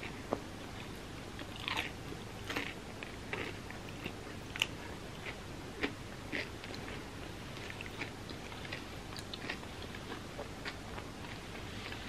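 Close-mouthed chewing of a chocolate-coated peanut-butter caramel bar with puffed rice and roasted peanuts: irregular soft crunches and clicks, a few louder ones in the first half, over a faint steady hiss.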